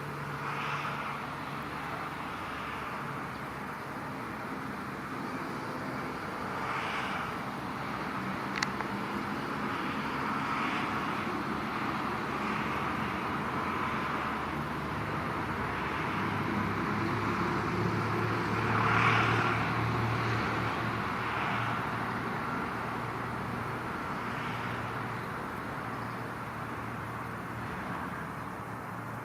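Steady road traffic noise with vehicles passing now and then, the loudest passing about two-thirds of the way through, with one short click in the first third.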